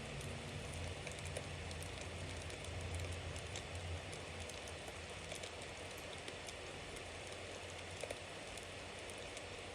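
Bonfire crackling: a steady hiss full of small pops and snaps. A low rumble fades after about four seconds, and there is a louder snap about eight seconds in.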